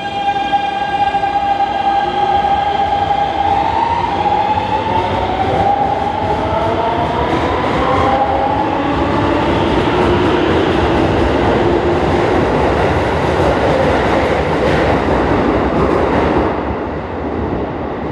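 Keikyu New 1000 series train's Siemens GTO inverter and traction motors whining as the train accelerates away from the station just after its 'doremi' scale. A held tone gives way to several tones rising in pitch, under growing wheel and running noise.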